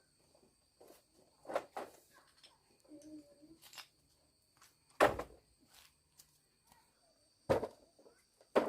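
A few scattered knocks and thumps, the two loudest about five and seven and a half seconds in.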